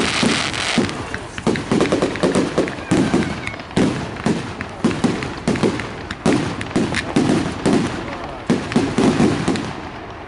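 Fireworks display: a rapid, irregular series of bangs and crackles, with voices of the watching crowd underneath, easing a little near the end.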